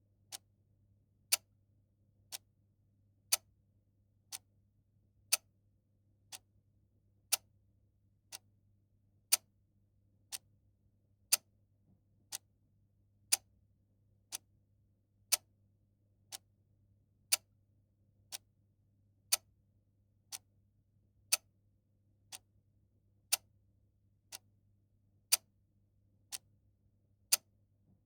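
Clock ticking steadily, about one tick a second, the strokes alternating louder and softer in a tick-tock pattern.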